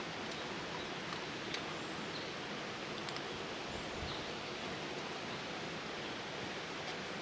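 Steady outdoor background hiss, with a few faint ticks and rustles.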